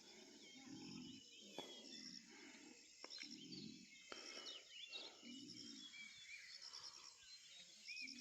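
Faint dawn ambience: scattered bird chirps over a steady, thin pulsing insect call, with a few soft low thuds.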